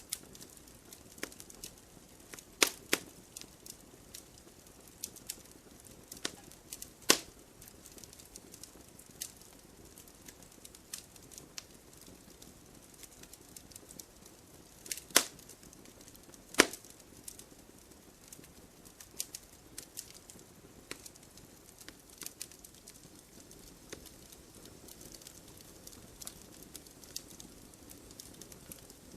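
Burning firewood crackling: irregular sharp snaps over a faint steady hiss, with a handful of louder pops.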